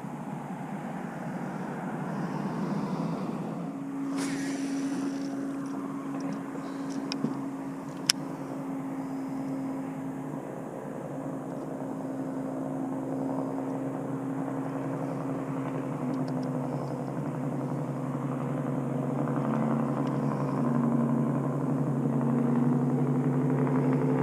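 A motor running with a steady hum that starts about four seconds in and rises in pitch near the end, with a few sharp clicks partway through.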